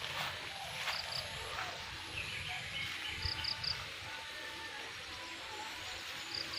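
Outdoor nature ambience: a steady background hiss with short, high-pitched chirps in twos and threes, about a second in, near the middle and near the end.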